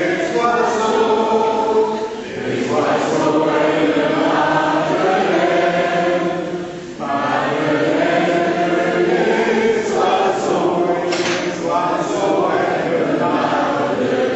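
A choir singing a slow song in long phrases, with short pauses between phrases about two, seven and twelve seconds in.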